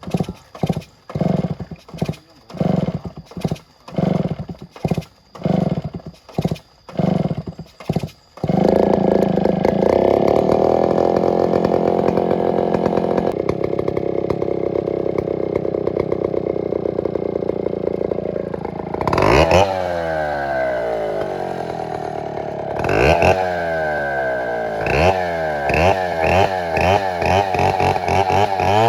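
Chainsaw: for the first eight seconds, an even pulsing about one and a half times a second, then the engine running steadily, and from about two-thirds of the way through, revved up and down again and again, about once a second.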